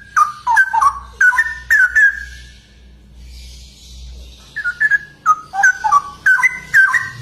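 Straw-headed bulbul (cucak rowo) singing a loud run of quick, liquid whistled notes, pausing for about two seconds midway, then starting another run.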